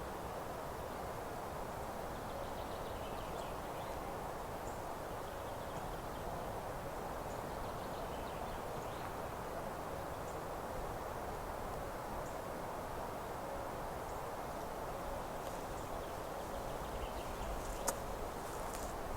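Outdoor meadow ambience: a steady, even rushing hiss in the background with faint, scattered bird chirps. A single sharp click comes near the end.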